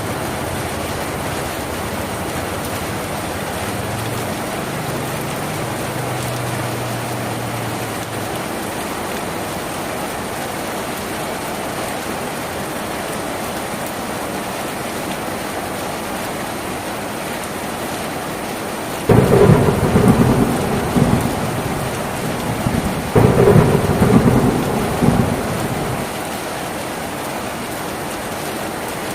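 Steady rain on a tin roof, with two sudden loud thunderclaps a few seconds apart about two-thirds of the way through, each rumbling on for a couple of seconds before the rain alone returns.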